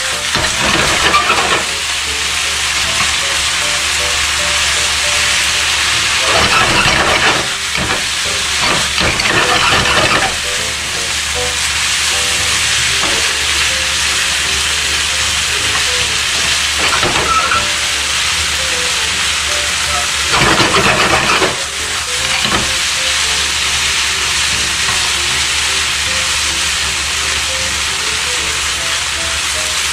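Yakisoba noodles with pork offal, cabbage and bean sprouts sizzling hard over high heat in a frying pan. At intervals tongs toss and stir them, and the sizzle flares louder with each toss.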